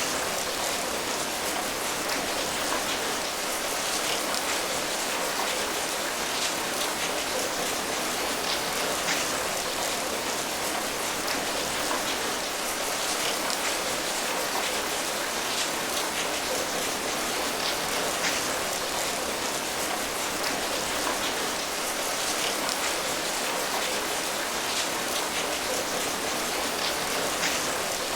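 Steady rain falling, an even hiss of dense rainfall with scattered individual drop ticks.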